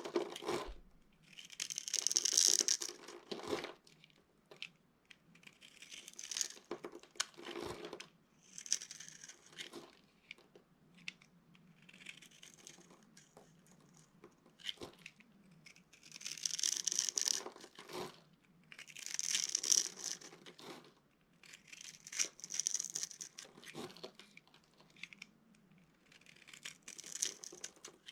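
Dry soap crunching and crumbling as it is crushed or cut, in repeated bursts about every two to three seconds, with a few sharp clicks between them.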